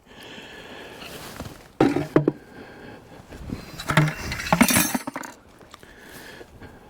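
Metal hand tools clinking and clattering as they are handled and set down, in a short flurry about two seconds in and a longer, louder one around four to five seconds in.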